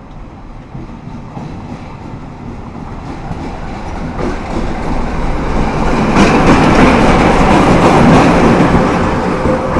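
A train rolling close by, its wheels clattering over the rail joints. It grows steadily louder to a peak about six to eight seconds in, then begins to ease.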